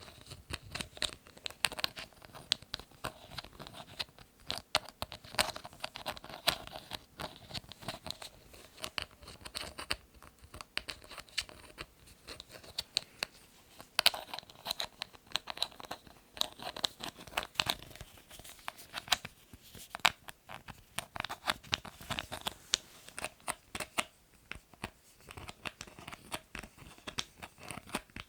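Lids handled close to the microphone: a continuous run of irregular clicks, taps and scratchy rustling, with a few sharper clicks standing out.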